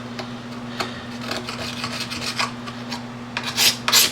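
A blade scraping paint and a thin layer of plastic off a plastic motocross gas tank in repeated strokes. The strokes are light at first, then turn loud from about three and a half seconds in, about two a second. A steady low hum runs underneath.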